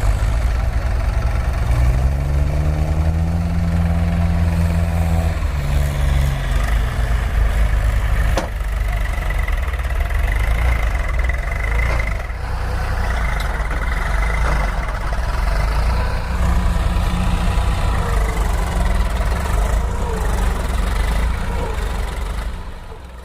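An engine running steadily, with a low hum. About two seconds in it revs up, holds, and drops back a few seconds later. It fades out at the end.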